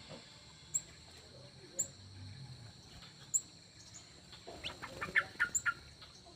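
Birds calling: thin high chirps about once a second, then a quick run of sharp calls about five seconds in, the loudest sounds here.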